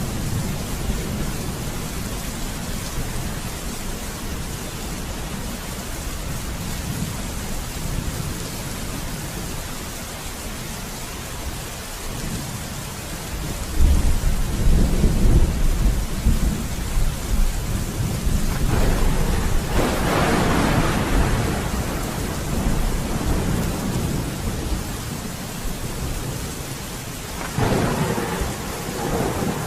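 Steady rain with thunder: a loud, deep rumble of thunder breaks in about halfway through and rolls on, with a second peak a few seconds later and another roll near the end.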